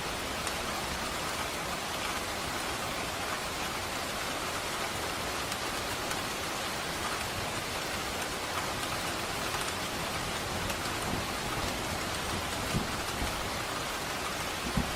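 Steady rain falling with an even hiss of drops on surfaces. Two brief low thuds come near the end.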